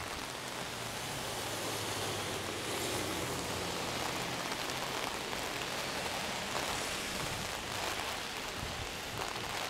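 Heavy rain falling steadily, hitting a large umbrella held just overhead and the pavement around it.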